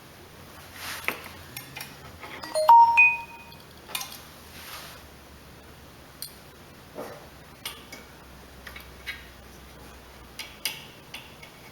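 Scattered clicks and knocks of metal tools and parts being handled while a carburetor is fitted to a small mower engine, with one loud ringing metallic clink about three seconds in.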